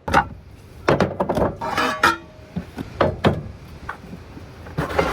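Knocks and clinks of camping gear being handled and set up, a sharp hit every half second to a second. One item rings briefly about two seconds in, and a longer rattling clatter comes near the end.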